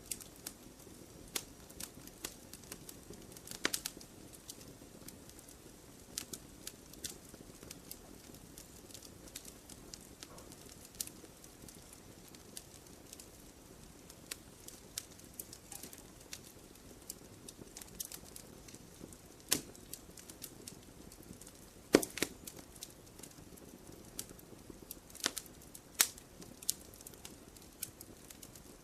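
Wood fire in a fireplace crackling: irregular sharp pops and snaps over a low, steady hiss, with one loud pop about two-thirds of the way through.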